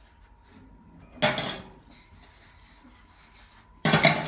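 Two loud clattering knocks of pots and dishes being handled, about two and a half seconds apart.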